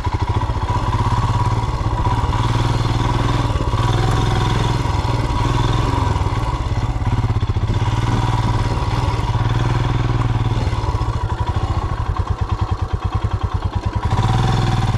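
Royal Enfield Himalayan's single-cylinder engine running under load as the motorcycle is ridden off-road, the revs rising and falling. Between about 11 and 14 seconds it drops to a slower, uneven chug.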